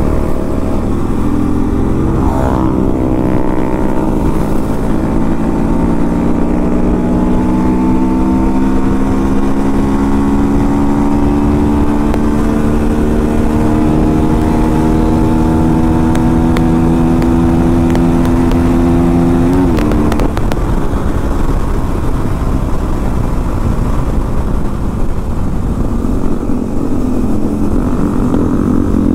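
Single-cylinder motorcycle engine under hard throttle on a highway run, its pitch climbing slowly for about seventeen seconds and then dropping sharply about twenty seconds in. A steady low rush of wind noise runs under it, and the engine note fades into it after the drop.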